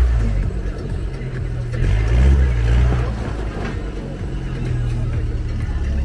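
Off-road 4x4's engine running and revving, swelling louder about two seconds in and easing off again.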